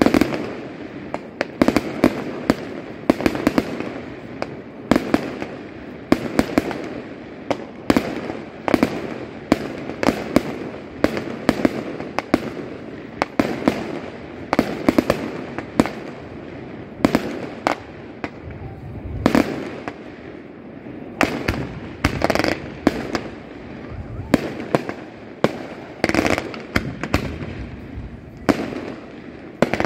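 Aerial fireworks display: shells bursting in rapid succession, dozens of sharp bangs, some in quick clusters, over a continuous crackle and rumble.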